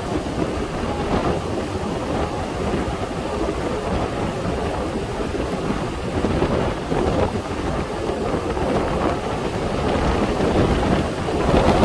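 Strong gusting wind buffeting the microphone: a loud, uneven rumbling rush.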